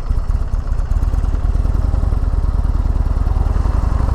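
Buell XB12S Lightning's 1203 cc air-cooled V-twin idling just after starting, with a rapid, even pulsing beat.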